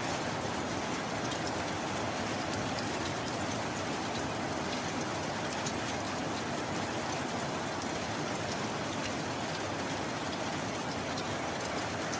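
Steady heavy rain, an even hiss with scattered individual drop ticks.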